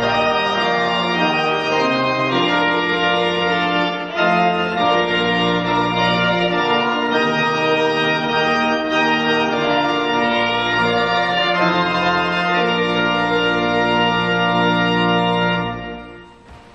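Organ playing sustained chords that change slowly, fading out near the end.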